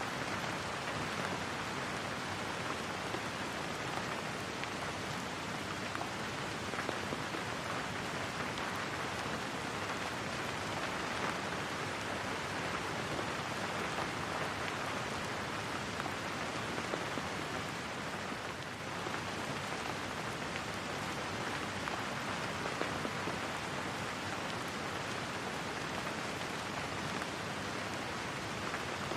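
Steady rain falling, an even hiss of drops with a brief slight dip about two-thirds of the way through.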